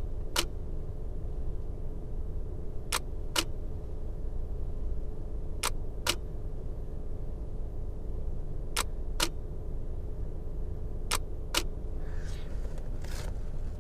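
Nikon DSLR shutter firing five times, each firing a pair of clicks about half a second apart, the shutter opening and closing on a slow exposure, repeating every two to three seconds. A steady low rumble sits underneath, inside the car's cabin.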